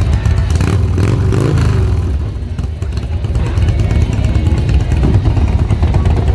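Loud motorcycle engine running, revved once about a second in, the pitch rising and then falling.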